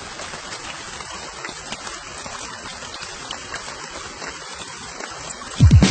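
Steady rain with scattered small drip clicks. Music comes in loudly near the end, opening with falling bass swoops.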